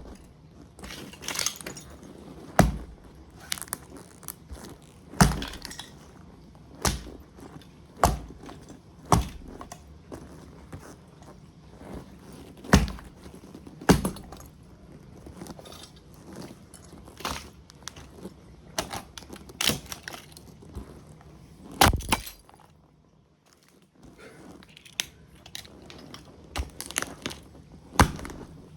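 Motocross boot stomping on and crushing a toy model truck: about a dozen sharp, heavy thuds one to three seconds apart, with cracking and crunching of the breaking toy between them and a brief lull about three quarters of the way through.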